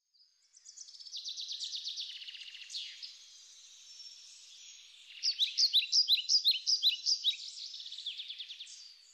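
Songbirds singing: fast high trills fade in within the first second, then about five seconds in a run of loud, sharp chirps at roughly four a second.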